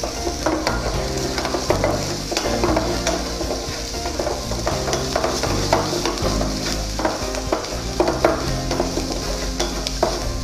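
Chopped garlic and ginger sizzling in hot oil in a pan as they are sautéed, with frequent short scrapes and knocks of the stirring utensil against the pan.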